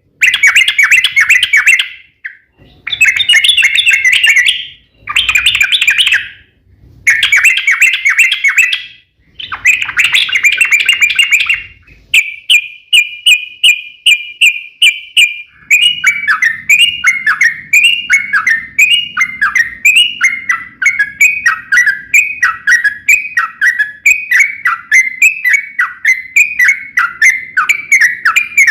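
Yellow-vented bulbul singing. First come short bursts of bubbly chattering song with brief pauses between them. Then a rapid even trill, and about halfway through a long unbroken run of quick down-slurred notes, about two a second.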